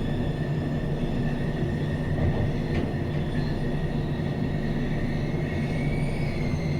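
Glacier Express train running along the track: a steady low rumble with a faint, level high whine.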